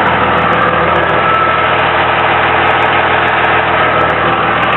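Cummins 5.9-litre 24-valve H.O. inline-six turbo diesel in a 2001 Dodge Ram 2500 idling steadily.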